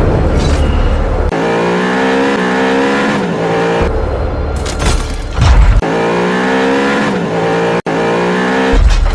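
Car engine revving in two long, rising sweeps, with a deep low rumble between them and music underneath.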